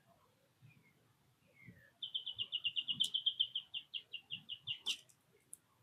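A songbird singing: a couple of soft falling slurred notes, then a loud rapid run of repeated notes that slows toward the end.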